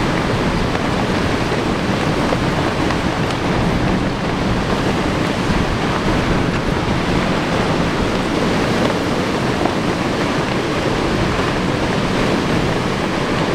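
Strong windstorm wind blowing steadily as a loud, even rush, buffeting the microphone.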